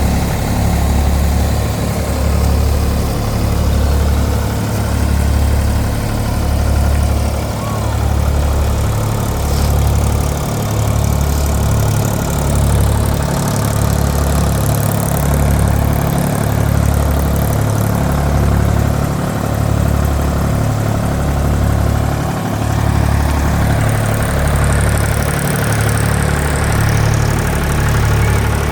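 Mahindra 275 DI TU tractor's three-cylinder diesel engine running steadily while driving a thresher, a low hum that swells and fades about every two seconds.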